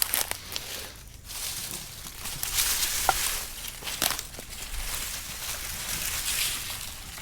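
Brush-pile bonfire catching: scattered crackles and pops with a hiss that swells about two seconds in.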